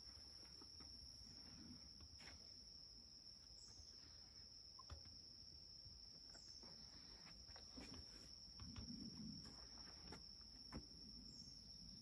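Near silence with a faint, steady, high-pitched insect trill throughout and a few faint clicks.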